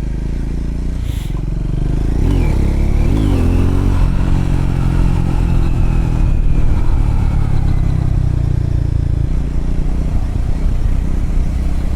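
Triumph Scrambler motorcycle engine under way, picking up revs about two seconds in and then running steadily.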